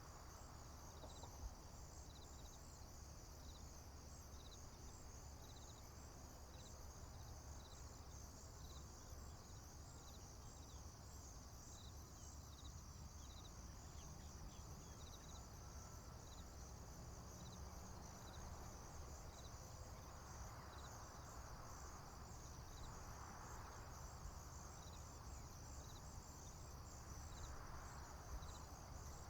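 Faint chorus of crickets in a field: a steady high trill with evenly spaced chirps about once a second over it. A low steady rumble lies underneath, and a soft rushing noise swells up two or three times near the end.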